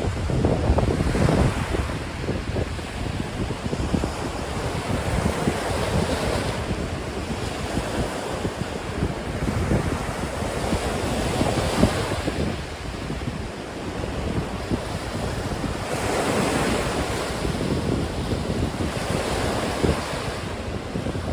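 Strong gusty wind buffeting the microphone, mixed with waves washing on the lakeshore; the noise swells and falls every few seconds.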